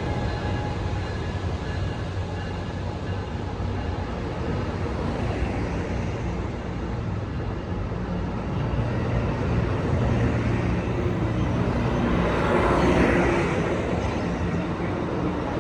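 Diesel train running at the station platform, a steady low engine rumble with faint steady tones that fade in the first second, then a swell of louder noise near the end.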